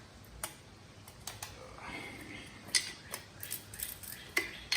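Metal roller chain clicking and rattling in irregular ticks as it is fed by hand around a dirt bike's front sprocket, with two sharper clacks, one just under three seconds in and one near the end.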